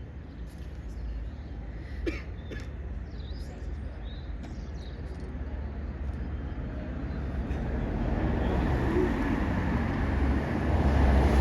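Street traffic: a passing vehicle's road noise builds and grows louder over the last few seconds, over a steady deep rumble of wind on the microphone.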